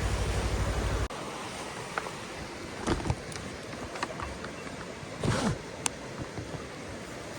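Motorcycle engine idling with a steady low pulse, then switched off about a second in. A few knocks and clunks follow over quiet outdoor background, the loudest about three seconds in and again after five seconds.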